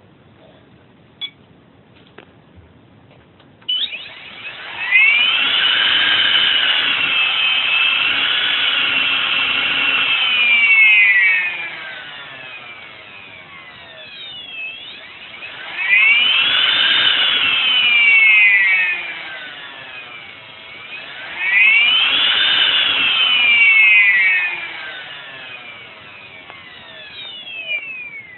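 A faulty Scorpion motor spun up and let run down three times, its high-pitched whine rising, holding, then falling away each time, after a few small clicks. The noise is what marks the motor as defective.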